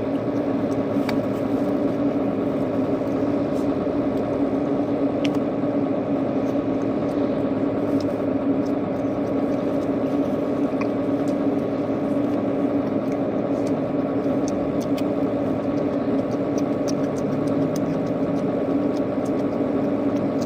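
A steady mechanical hum that holds one low tone throughout, with a few faint clicks scattered through it.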